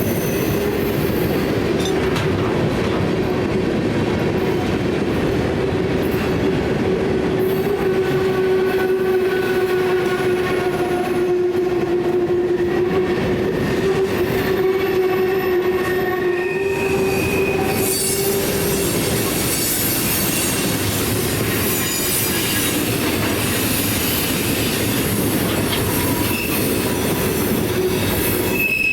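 A CSX train's wheels squealing as the cars grind through a very sharp curve, the inner wheel parts scraping along the rails. The steady squeal sits over the clatter of the rolling cars and weakens about two-thirds of the way in.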